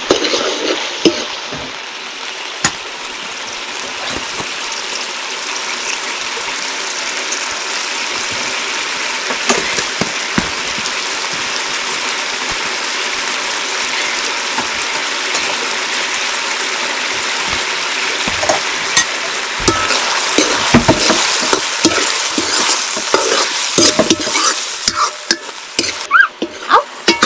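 Food sizzling steadily in hot oil in a cooking pan while it is stirred, with a utensil knocking and scraping against the pan more often in the last third.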